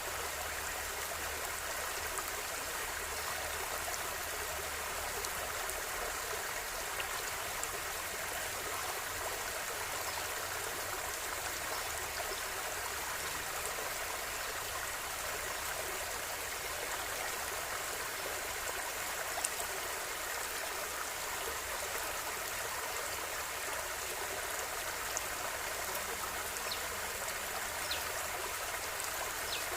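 River water flowing and babbling over stones, a steady even rush with a few faint splashes and drips.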